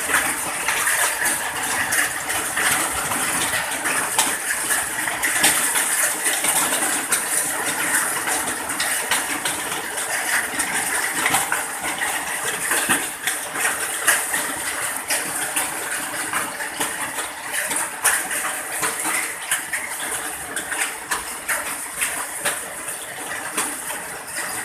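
Steady rain falling: a dense, even hiss full of small, sharp drop ticks.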